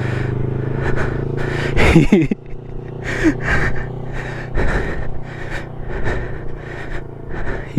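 Yamaha R3's parallel-twin engine running at low, steady revs as the learner rides past, dropping away about two seconds in. After that come irregular short rushing noises on the microphone.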